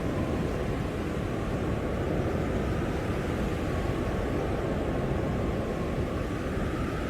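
Strong blizzard wind blowing steadily, a dense rushing noise with a heavy low rumble and no let-up.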